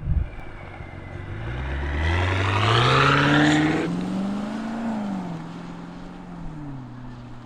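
BMW S68 twin-turbo V8 exhaust with free-flow downpipes and a valved full exhaust, heard from outside as the SUV accelerates hard. The engine note climbs steadily to its loudest about three seconds in, then drops sharply, swells once more and eases off to a lower, steadier note.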